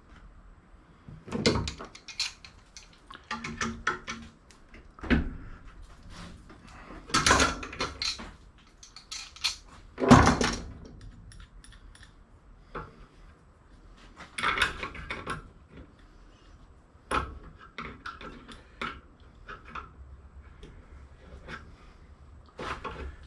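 Pieces of scrap metal clanking and rattling as they are handled and tossed, in irregular knocks, some ringing briefly, with the loudest a little after ten seconds in.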